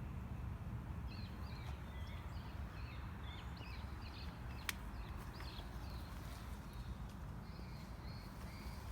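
Small birds chirping in a rapid run of short calls over a steady low outdoor rumble, with one sharp click about halfway through.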